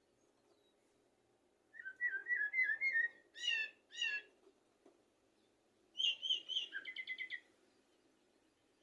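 Common blackbird singing: two phrases of whistled notes. The first, about two seconds in, is a run of warbled notes ending in two falling whistles. The second, about six seconds in, is a quick series of higher, rapid notes.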